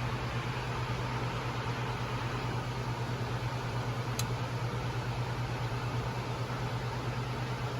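Steady flight-deck noise of a jet airliner-class aircraft in high-altitude cruise: an even rush of airflow and air-conditioning over a constant low hum, with one faint click about four seconds in.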